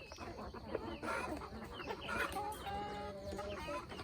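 A flock of free-range chickens clucking and calling over one another, with a longer drawn-out call in the second half.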